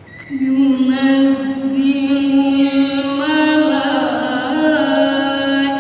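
Melodic Qur'an recitation (tilawah) by a single voice. It begins about a third of a second in with a long held note, then sustains it through wavering, ornamented melismatic runs.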